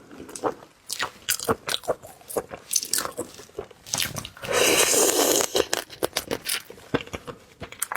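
Close-miked biting and chewing of seafood: a run of crisp crunches and wet mouth clicks, with one longer, dense crunch about four and a half seconds in.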